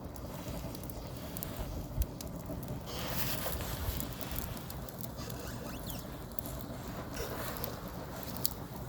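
Firewood burning in an agungi, a traditional Korean wood-fired firebox: steady crackling with stretches of hissing, and a sharp pop about two seconds in and another near the end.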